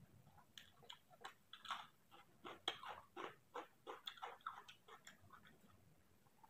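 A person chewing food with the mouth close to the microphone: a quick series of soft, wet clicks and smacks, thinning out near the end.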